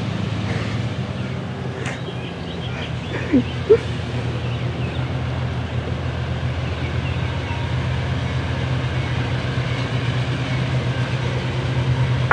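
Freight train of loaded aggregate hopper cars rolling past with a steady low rumble. Two brief squeaks come about three and a half seconds in.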